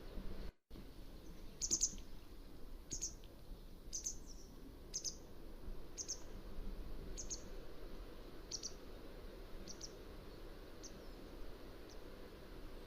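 Mountain wagtail giving a series of short, high-pitched calls about once a second, growing fainter toward the end, over a steady background hiss.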